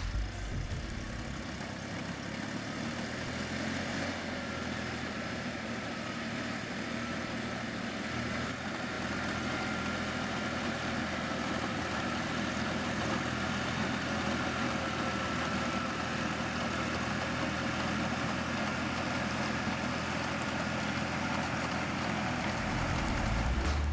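Engine of farm machinery running steadily.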